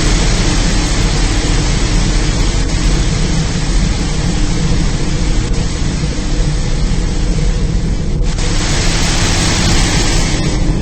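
In-bay automatic car wash running: a loud, steady rush against the car with a low steady hum underneath, the rush turning brighter about eight seconds in.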